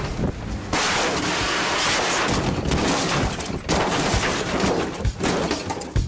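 A car launched off a ramp at about 100 km/h crashing and rolling over: a run of loud, sharp impacts over dense, continuous crashing noise.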